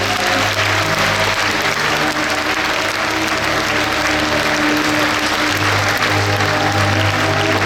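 Theatre audience applauding steadily over loud music with held notes and a bass line.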